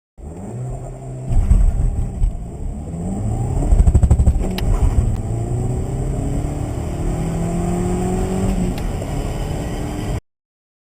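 Audi A3 (8P) engine accelerating hard, its pitch rising again and again as it pulls up through the gears. It cuts off suddenly about ten seconds in.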